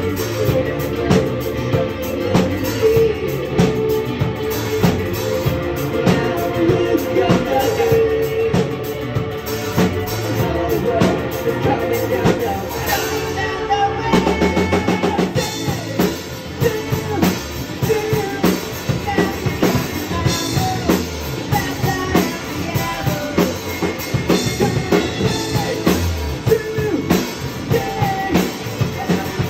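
Live indie rock band playing an instrumental passage of the song, with the drum kit prominent (kick, snare and rimshots) over guitar and bass. The music shifts to a new section about fourteen seconds in.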